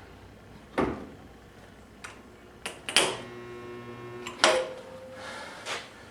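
Sharp metallic clicks and knocks as a stud welder gun is worked against the truck's sheet metal. About three seconds in, a steady electrical hum holds for about a second and a half, followed by a fainter single tone.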